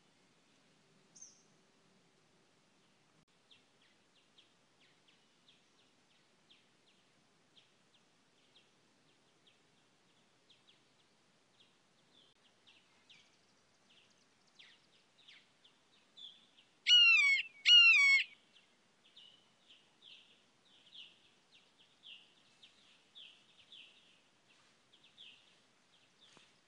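Wild birds outdoors: faint, irregular chirping throughout, and two loud, harsh bird calls about a second apart about two thirds of the way through.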